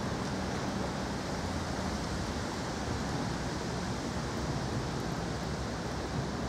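Thunderstorm rain falling as a steady, unbroken hiss.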